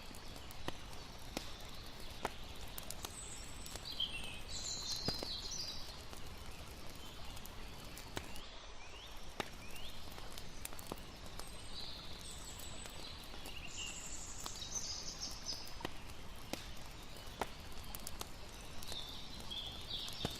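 Campfire crackling with scattered sharp pops over a steady watery hiss, with a few clusters of high chirps now and then.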